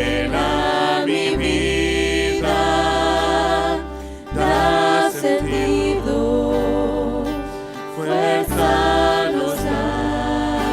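A congregation singing a hymn together, with instrumental accompaniment and held bass notes underneath.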